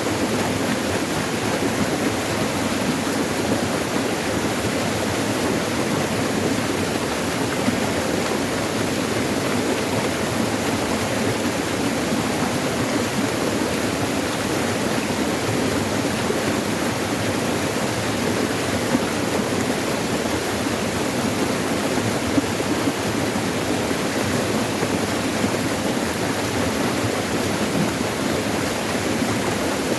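Steady, even rush of water flowing over rocks in a forest stream.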